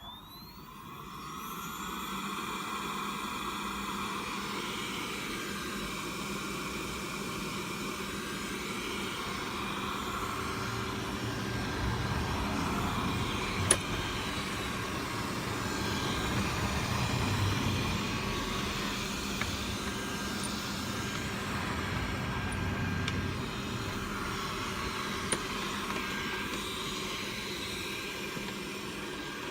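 Xiaomi Mi robot vacuum's suction fan spinning up with a rising whine over the first couple of seconds, then running steadily. A single sharp click about halfway through.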